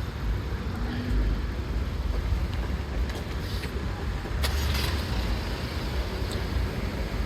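City street traffic: passing cars and buses over a steady low rumble, with a sharp click about four and a half seconds in.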